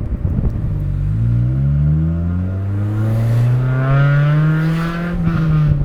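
Honda Civic Si four-cylinder engine accelerating hard through a rusted exhaust, heard from the cabin with the windows down. The engine note climbs steadily for about four seconds, then drops a little near the end as the revs ease off.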